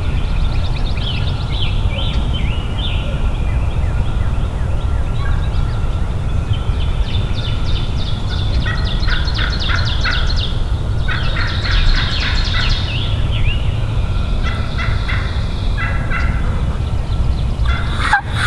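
Eastern wild turkey gobbler gobbling, four or five rattling gobbles spread through the stretch, over a steady low rumble.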